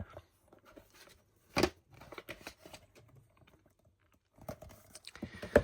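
Packaging being handled: a shrink-wrapped steelbook and its card case, with a sharp click about a second and a half in, faint scattered plastic crackles, then a cluster of rustling ending in another click near the end.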